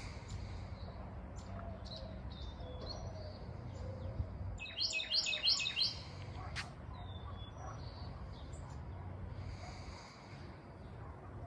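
Songbirds chirping and calling, with a quick run of about six louder chirps around five seconds in, over a steady low rumble.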